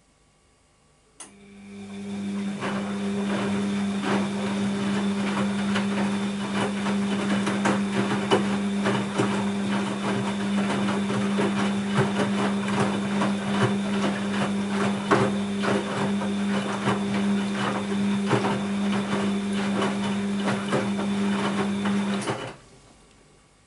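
Bosch WAB28220 washing machine running mid-programme: a click, then a steady mechanical hum that builds up over a second or two with dense rattling and clicking over it, stopping abruptly after about twenty seconds.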